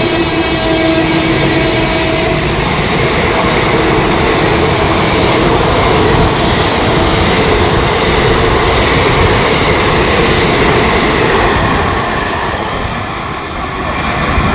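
A WAP-4 electric locomotive's horn sounding a steady two-pitch note that stops about two seconds in, followed by the loud, even rushing noise of the express train passing close by. The noise eases briefly near the end.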